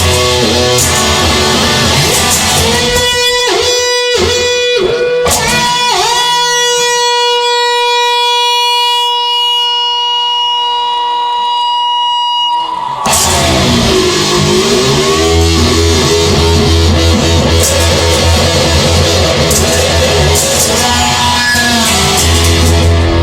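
Instrumental break in a rock song. About three seconds in the band drops away and a guitar plays alone, bending its pitch down several times and then holding one long note. The full band with heavy bass comes back in around thirteen seconds.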